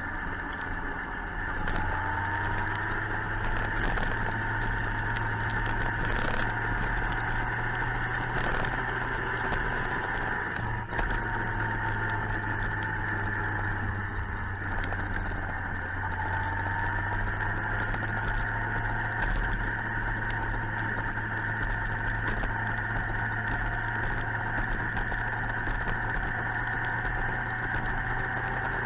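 Suzuki GSX-R 1000's inline-four engine running steadily at cruise, its note drifting slowly up and down with small changes in speed.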